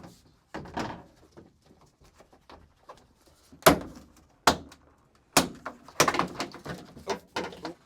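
Hard knocks and clattering of car interior trim pieces being pried out and handled: a handful of sharp impacts, the loudest a little under four seconds in, then a busier run of small knocks near the end.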